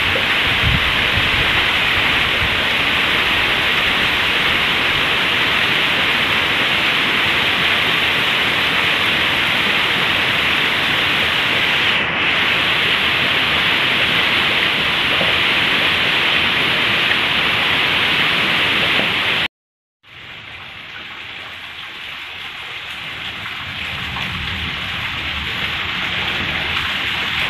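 Heavy rain falling steadily on grass and frangipani leaves, a dense even hiss. About two-thirds of the way through it cuts out for a moment, then comes back softer and slowly swells again.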